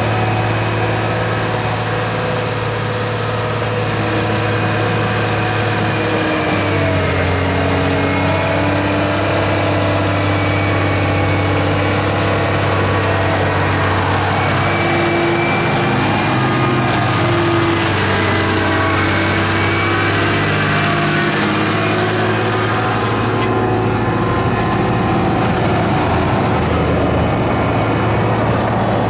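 Cat AP655D asphalt paver's Cat C6.6 diesel engine running steadily. Its pitch drops about six seconds in and comes back up about twenty-one seconds in.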